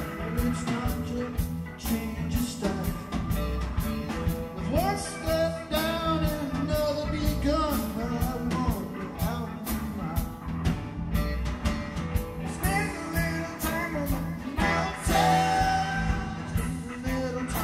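Live rock band playing a bluesy jam groove: steady drums and bass under a lead line that bends up and down in pitch.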